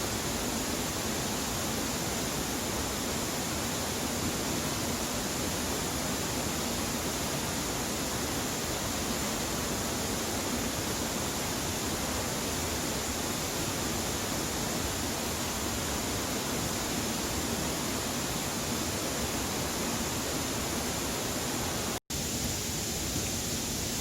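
Steady, even rushing of running water, unbroken except for a split-second dropout near the end.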